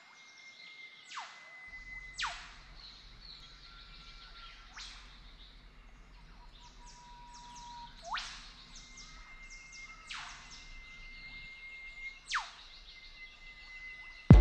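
Bird calls: about seven quick, sharp, downward-swooping calls spread through, over thin, steady high whistles. A faint low hum comes in about two seconds in.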